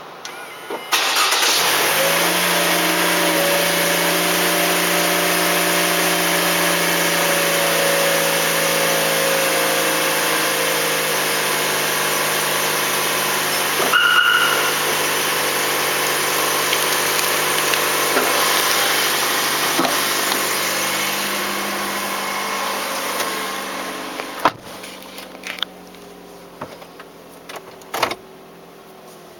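Toyota Voxy engine started by its VIPER 5706 remote engine starter: it cranks and catches about a second in, then idles steadily, its pitch easing slightly. A short beep sounds midway, and the engine sound falls away after about 23 seconds, followed by a few clicks.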